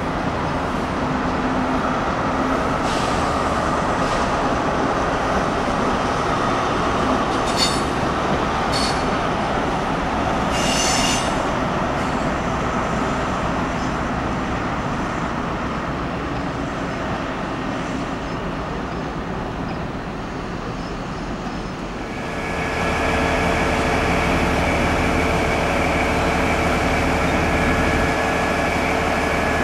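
A passenger train rumbling along the tracks, with a few short high squeals of wheels on rail. After a sudden change, the diesel engine of the Network Rail New Measurement Train's HST power car runs steadily as the power car moves slowly along the platform, a hum with several steady tones.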